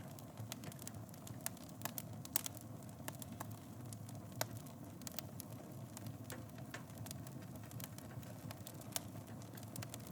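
Wood fire burning in a fireplace, crackling with irregular sharp pops over a steady low roar of the flames, one louder pop about two seconds in.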